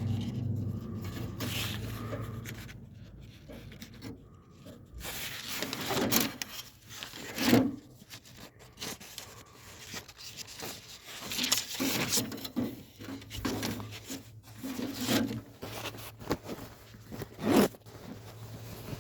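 Irregular rubbing and scraping handling sounds, with several louder scrapes, and a low steady hum at the start and again in the second half.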